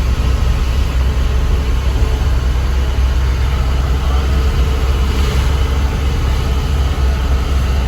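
Truck's diesel engine running steadily on the road: an even, loud low drone with road noise above it.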